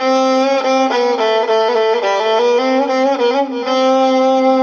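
Instrumental interlude of a Mohammadawi mawwal: a violin-toned melody plays held notes and short stepping phrases, with some vibrato, over a steady low held note.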